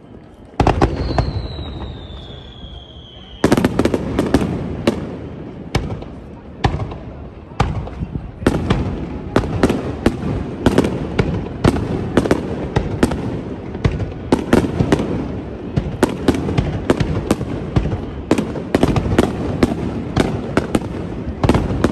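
Aerial fireworks shells bursting over a river: one burst, then a whistle falling in pitch for a couple of seconds, then a loud crack that sets off a rapid barrage of sharp bursts, several a second.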